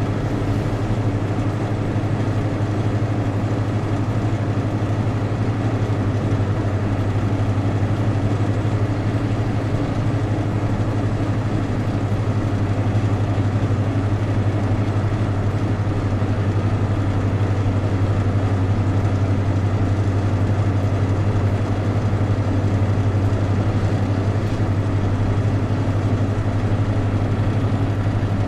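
Steady drone of a vehicle on the move, engine and road noise heard from inside the cabin, with a strong low hum that holds even throughout.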